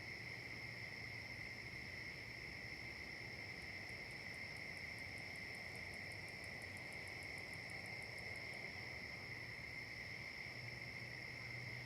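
Insect chorus in late-season vegetation: a steady, unbroken high trilling. In the middle a second, higher insect adds a quick ticking, about five ticks a second, for a few seconds and then stops.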